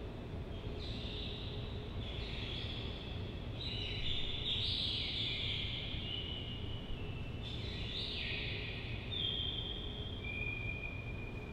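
Birds chirping and calling, many overlapping high falling calls, with two long held whistled notes near the end, over a steady low hum.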